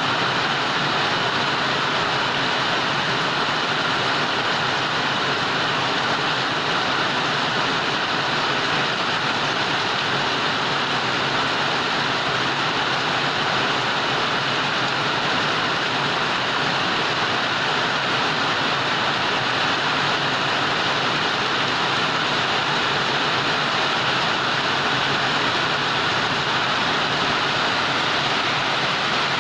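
Heavy rain pouring down steadily, a dense, even hiss that neither builds nor eases.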